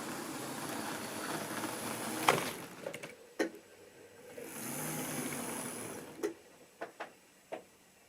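Model railway train running along the track, stopping with a sharp click about two seconds in. It runs again briefly, then a few light clicks and knocks follow.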